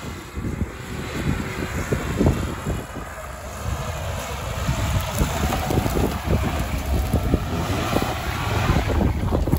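Lada Niva's engine running as it crawls over dirt mounds and passes close by, getting louder in the second half. Heavy wind buffeting on the microphone.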